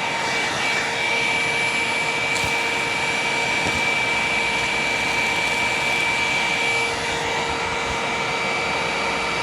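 Hoover WindTunnel upright vacuum running steadily, sucking up debris, with a high steady whine over the rush of air. A brief tick of debris going through comes about two seconds in.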